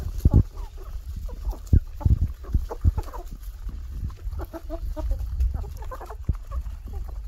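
Chickens clucking in many short, repeated calls, with scattered knocks and a low rumble underneath.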